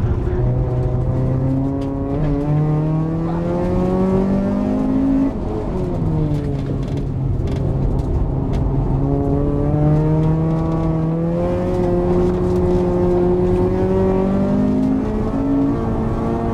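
Honda Civic's B18C 1.8-litre DOHC VTEC four-cylinder heard from inside the cabin during an autocross run, its pitch climbing under acceleration and dropping back as the driver lifts and shifts between cones. The pitch and level drop sharply about five seconds in, then climb again.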